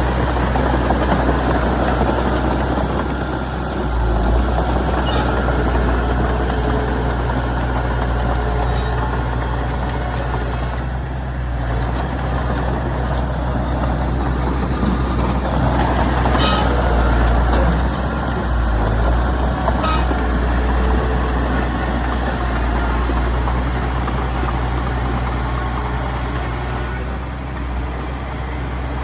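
Diesel engine of a Komatsu D31PX crawler bulldozer running steadily while working fill soil. Three sharp metallic clanks sound over it, a few seconds apart.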